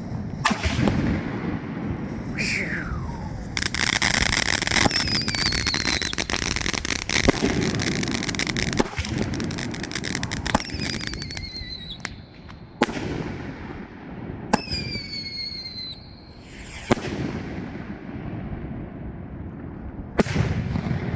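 Aerial firework canister shells (Pyro Box Sky Bangers) bursting overhead: a string of sharp bangs, a long stretch of crackling from about four to ten seconds in, and several whistles that fall in pitch.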